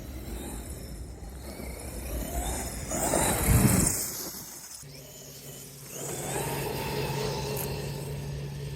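Giant RC car driving across grass at full throttle, its motor and drivetrain rising in pitch and loudness to a peak about three and a half seconds in, then fading. From about five seconds a steady low hum follows.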